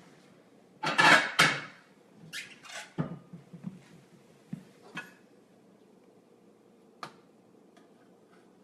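Cookware and utensils clattering as a piece of poached chicken is taken from the pot and cut: a loud rattling clatter about a second in, then several sharp knocks and clicks, the last one near the end.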